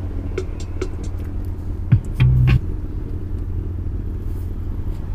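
Steady low rumble of a car heard from inside the cabin. A few faint clicks and a short, loud low hum come about two seconds in.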